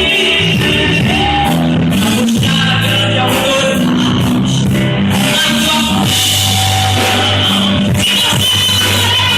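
A band playing a loud, steady rock-style gospel song with a singer.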